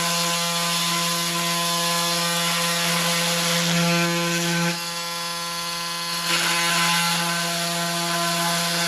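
Bladed power tool running steadily while cutting through a furnace humidifier pad, a constant motor hum with a rasping cut. It runs lighter and quieter for about a second and a half around the middle, then takes the load again.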